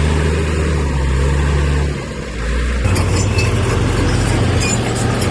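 Heavy diesel earthmoving machinery running at a steady note. About three seconds in the sound turns rougher, with scattered metallic clinks and rattles.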